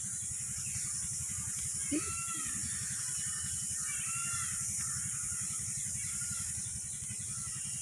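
Faint cawing calls from a bird, a few short cries in small groups, over a steady background hiss and low hum.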